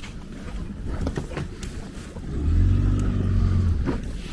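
A small boat's motor running, with a swell of engine sound about halfway through lasting a second and a half. Before it come a few knocks and bumps.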